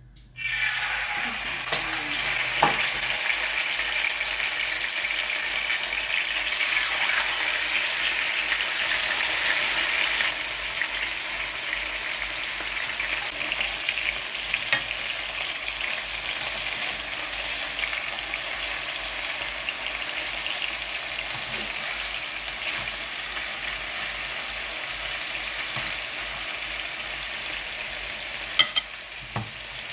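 Chicken fillets shallow-frying in a little cooking oil in a frying pan: a steady sizzling hiss that starts suddenly about half a second in and eases slightly after about ten seconds. A few sharp clicks near the end.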